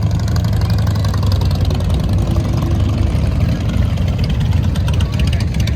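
Motorcycle engine running close by with a steady, rapid exhaust beat.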